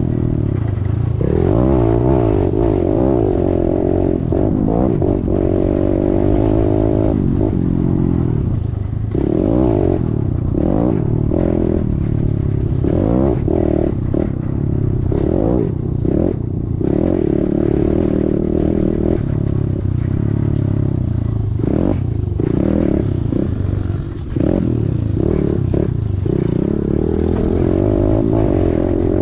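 Kawasaki KLX110's small single-cylinder four-stroke engine revving hard and rising and falling in pitch as the rider works the throttle, with clatter and scraping from the bike over rough track. Between about 9 and 17 seconds in the engine note repeatedly drops back and picks up again.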